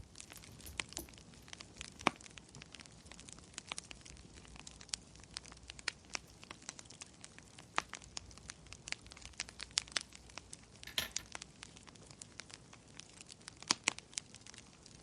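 Wood fire crackling: many small, irregular sharp pops over a low, quiet bed, with a brief louder rustle about eleven seconds in.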